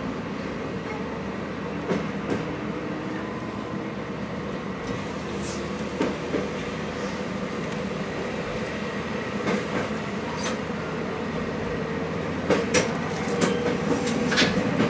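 Diesel railcar heard from inside the passenger cabin while running: a steady engine and running hum, with wheels clicking over rail joints and points now and then, the clicks coming thick near the end.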